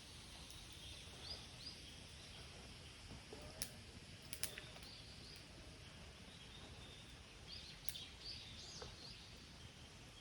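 Faint bird chirps, short and rising, scattered over a quiet outdoor background, with a few soft clicks around the middle.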